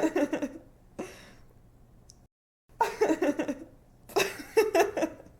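A woman laughing in giggling bursts: one at the start, a fainter breathy one about a second in, then two more bursts in the second half. The laugh cuts off suddenly at the end.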